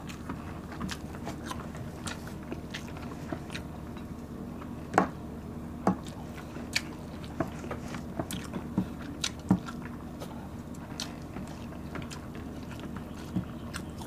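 Close-up eating sounds as fried dried milkfish is eaten by hand: chewing with wet mouth clicks and smacks scattered irregularly, the sharpest about five seconds in and again near nine and a half seconds, over a steady low hum.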